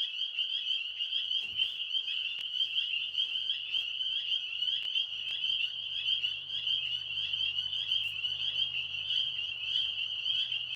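Chorus of tree frogs calling loudly and without a break: a dense, high, rapidly pulsing trill from many frogs at once.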